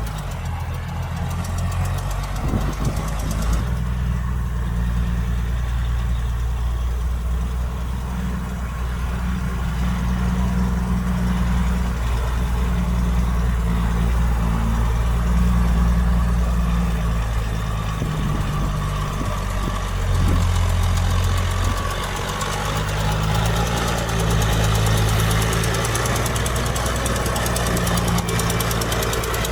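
Heavy earthmoving machine's diesel engine running continuously, its low drone shifting up and down in pitch.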